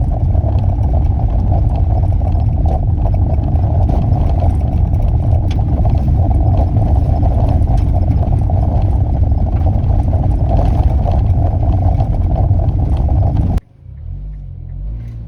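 Steady road and engine noise of a car being driven, heard from inside, with a heavy low rumble. It cuts off abruptly near the end, leaving a much quieter low hum.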